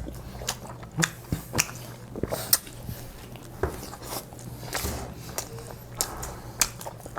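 People eating burgers fast: irregular biting and chewing sounds with short wet clicks.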